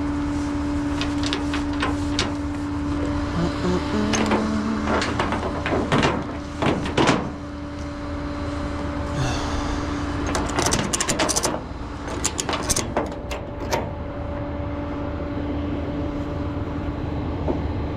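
Tow truck's engine running with a steady hum, with scattered clanks and knocks.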